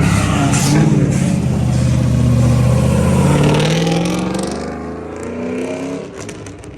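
A car accelerating hard and driving away: a loud engine note that falls in pitch and fades over the last few seconds.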